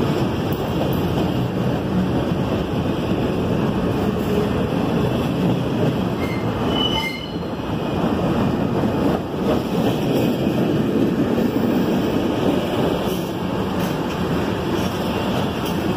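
Norfolk Southern freight train's cars rolling past close by: a steady rumble of steel wheels on rail, with a few brief high wheel squeals about six to seven seconds in.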